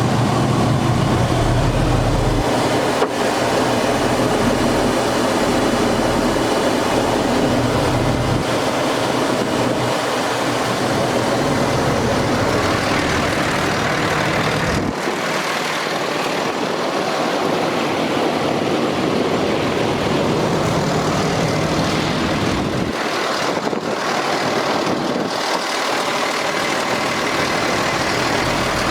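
Cummins ISC diesel engine of a Freightliner M2 water truck idling steadily, its low rumble shifting in strength at a few points.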